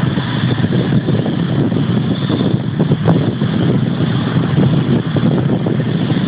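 Jet airliner engines running, a loud, steady noise without a clear pitch.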